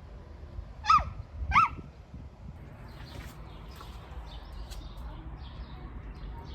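A large bird gives two loud, short calls about a second in, each a clear note that rises and then drops away. Faint high chirps of smaller birds follow.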